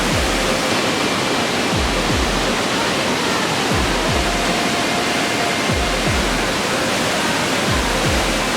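Waterfall: a steady, dense rush of falling water. Background music is laid over it, with a deep bass beat about every two seconds.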